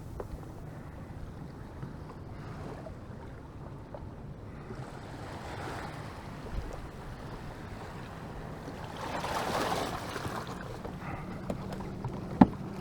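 Water washing against a small boat's hull as it moves on the river, with wind on the microphone, swelling twice. A single sharp knock near the end.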